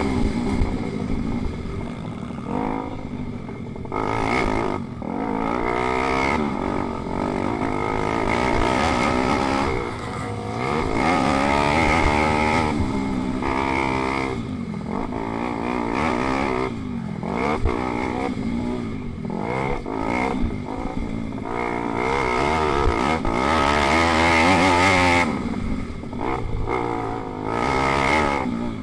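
Pit bike racing motorcycles: their small single-cylinder four-stroke engines rev up and drop back again and again as they change gear and brake through corners.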